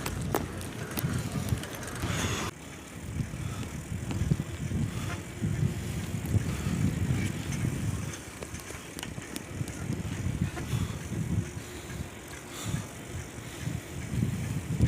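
Bicycle being ridden, with uneven rumbling wind buffeting the microphone and a few clicks and rattles in the first couple of seconds.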